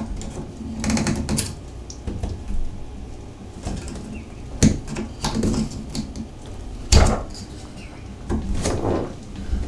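A few knocks and clicks from handling the metal parts of a Moen shower valve while checking that its retaining pin is seated. The sharpest knocks come about four and a half and seven seconds in.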